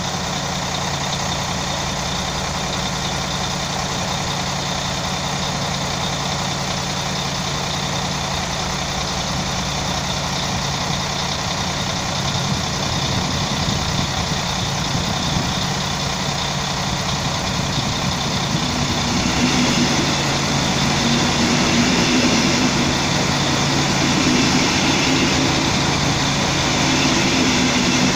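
Diesel multiple unit (Alstom Coradia LINT) idling at the platform with a steady low hum. From about two-thirds of the way through, a double-deck regional train pulls in alongside and adds its own running noise and a second hum, growing slightly louder toward the end.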